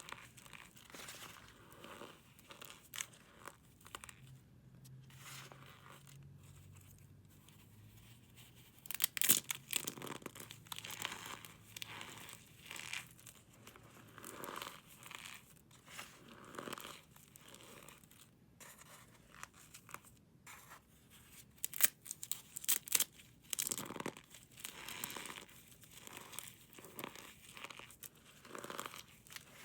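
Brittle material being crushed and crumbled by hand: irregular crunches and crackles, with louder bursts of crunching about nine seconds in and again a little past twenty seconds.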